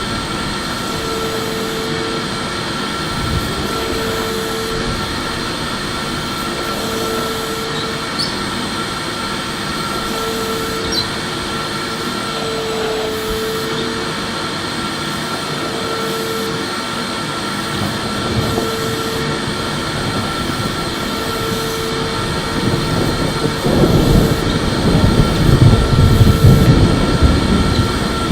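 Electric vacuum cleaner running continuously: a steady rushing noise with a constant high whine, and a fainter tone that comes and goes about every two and a half seconds. Near the end it grows louder and rougher in the low end.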